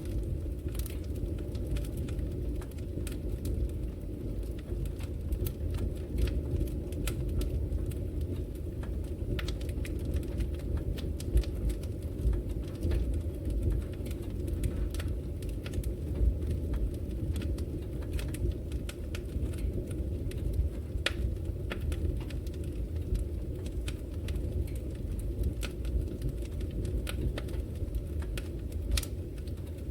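Wood fire crackling in a fireplace: a steady low rumble of burning with frequent sharp, irregular pops and snaps, one louder snap about eleven seconds in.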